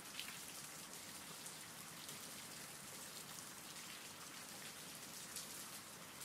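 Steady rain: an even, soft hiss of falling rain with scattered individual drop ticks.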